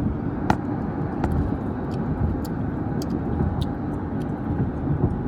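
Road noise inside a moving car's cabin: a steady low rumble of engine and tyres, with a few short sharp clicks.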